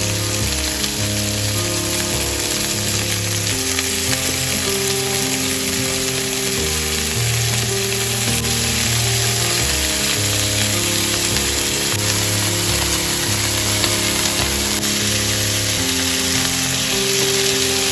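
Rolled chicken breasts sizzling in hot oil in a nonstick frying pan as they are turned with tongs. Soft backing music of held notes that change every second or so plays underneath.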